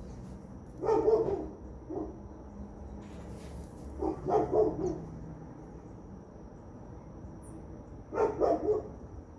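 An animal calling in three short bursts, each a quick run of a few calls: about a second in, near the middle and near the end. A thin steady high tone runs underneath.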